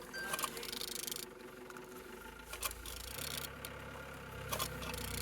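A removed engine being turned over by hand, with bursts of mechanical clatter and a few knocks as the crankshaft rotates; it turns freely. A low rumble comes in about two seconds in.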